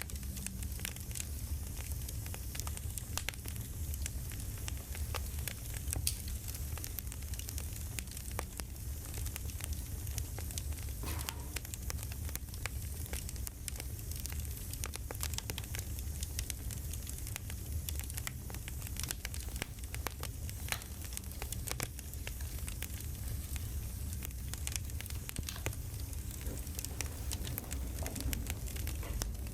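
Crackling campfire: a steady low rumble with frequent sharp pops and snaps.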